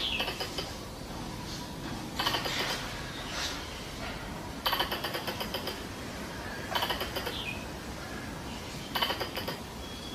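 Squirrel chattering call, used as a mating-season lure: short bursts of rapid clicking chatter, each under a second long, repeated about every two seconds, five times.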